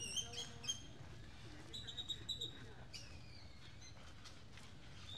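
Birds chirping in short, high repeated notes, with a cluster about two seconds in and a falling whistle about three seconds in.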